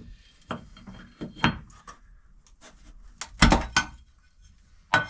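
A few sharp knocks and clatters of tools and parts being handled during work on an engine bay, loudest about three and a half seconds in.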